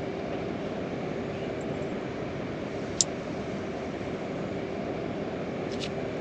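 Steady rain falling, a continuous low hiss, with one sharp tick about halfway through and a fainter one near the end.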